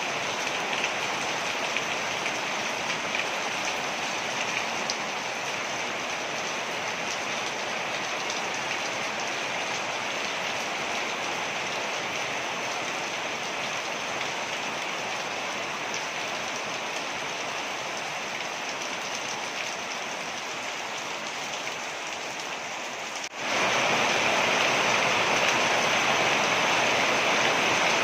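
Waterfall water splashing steadily, close to the sound of heavy rain, with scattered drop ticks. About 23 seconds in it cuts abruptly to a louder, denser, hissier rush of water.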